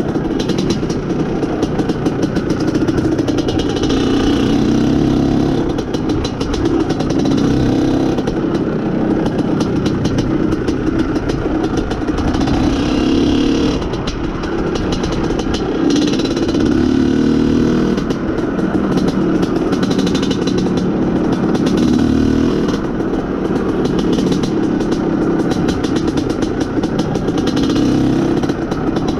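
IZh Planeta Sport's single-cylinder two-stroke engine running under way, the engine note swelling and easing every couple of seconds as the throttle is opened and closed. The rider says the engine goes lean as soon as the throttle is opened, which he blames for its seizures.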